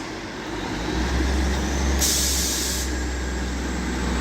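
Class 158 diesel multiple unit standing at the platform, its underfloor engine giving a steady deep rumble that strengthens about a second in. A short sharp hiss of air, which recurs about every three seconds, comes about two seconds in.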